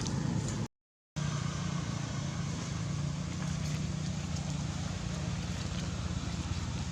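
Steady low motor hum over a background of noise, cut by a brief total dropout under a second in.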